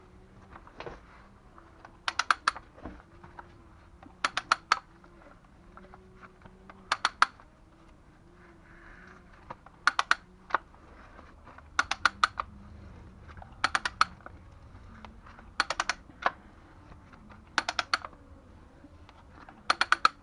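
Sharp clicks in quick groups of three or four, the groups repeating about every two seconds, over a faint low hum.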